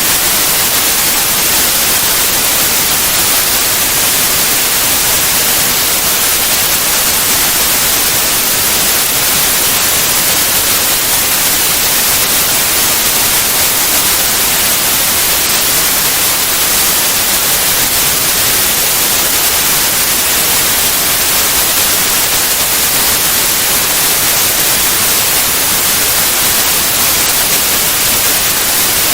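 White noise: a steady, even hiss that stays at one level without change.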